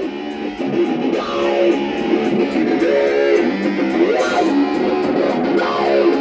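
Rock band playing live: an electric guitar riff with notes that slide up and down, over a steady beat.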